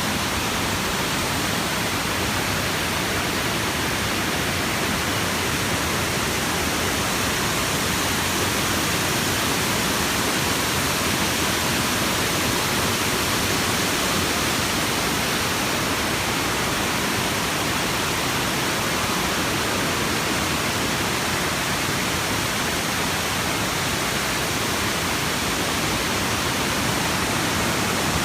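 Rushing river water or a waterfall: a steady, unbroken rush of water noise.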